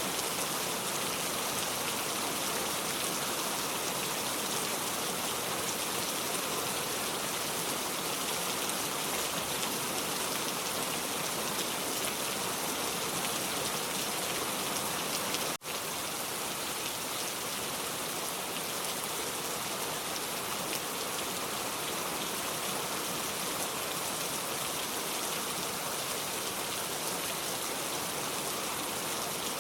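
Steady rain falling, an even hiss of drops. It cuts out for an instant about halfway through, then carries on unchanged.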